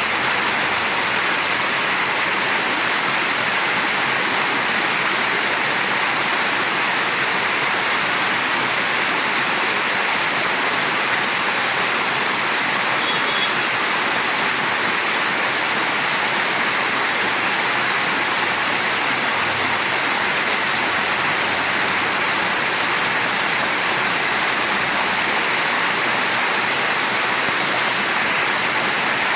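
Mountain stream running: a steady, even rush of water with no breaks or changes.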